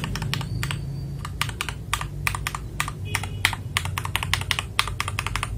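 Mechanical keyboard fitted with Gateron keycaps being typed on, giving a quick, uneven run of crisp key clacks that grows faster and denser after about a second and a half. These are the keycaps being compared with another plastic set for their different sound.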